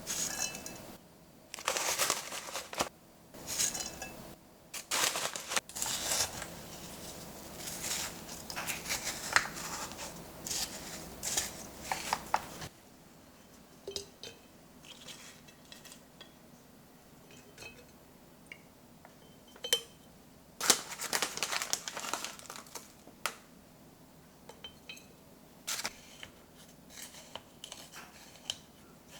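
Kitchen handling sounds: crinkling and rustling mixed with small clinks and taps, busy through the first half and again briefly in the second, with scattered single clicks in between.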